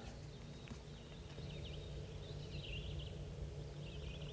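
Faint outdoor ambience: a few distant bird chirps over a low steady rumble.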